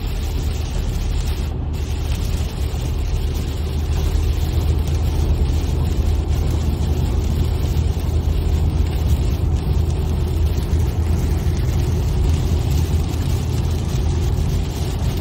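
Car driving: a steady low rumble of engine and road noise, slightly louder from about four seconds in.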